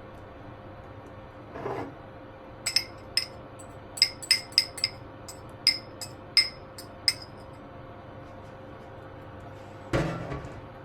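A kitchen utensil clinking against a bowl about a dozen times in an uneven rhythm, each clink ringing briefly, with a duller knock near the end as something is set down.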